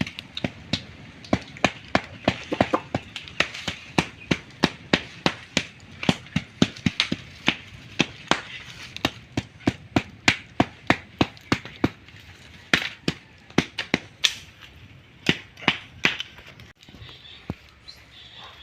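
A rapid series of sharp strikes, about two to three a second, like a blade chopping, with a brief pause about twelve seconds in and fewer strikes near the end.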